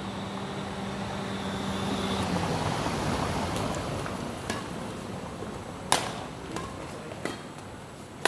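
Steady vehicle-like rumble with a held hum that stops about two seconds in, then sharp racket-on-shuttlecock hits of a badminton rally, about one every second and a half.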